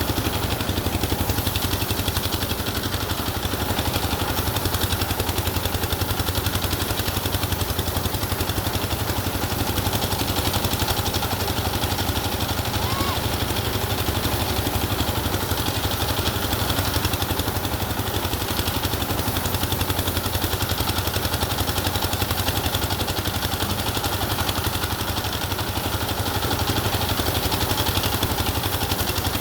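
An engine running steadily at an even speed, with a fast, regular pulsing and no change in pitch or level.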